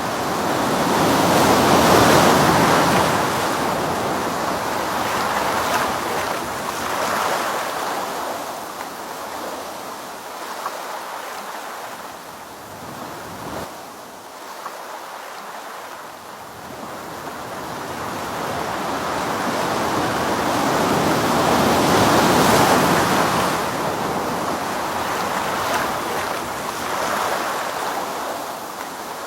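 Ocean surf breaking and washing onto a beach, swelling loudest about two seconds in and again about three quarters of the way through, with a quieter lull between.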